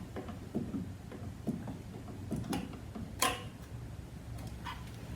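Light clicks and knocks of an oil filter removal tool working the spin-on oil filter loose, with one sharper click about three seconds in.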